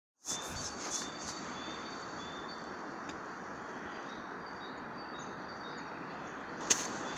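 Forest ambience: a steady rushing noise with faint, short, high bird calls over it, and a few sharp clicks near the start and again near the end.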